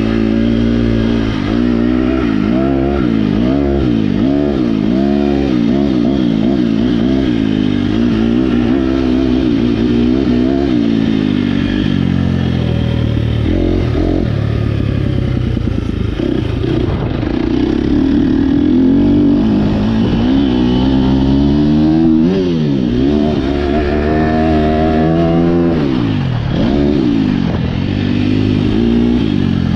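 A 2023 KTM 250 SX-F's four-stroke single-cylinder engine, breathing through an Akrapovic Evolution Line exhaust, being ridden hard on a motocross track. The revs climb and drop over and over through gear changes and throttle chops, with one longer steady pull about two-thirds of the way through.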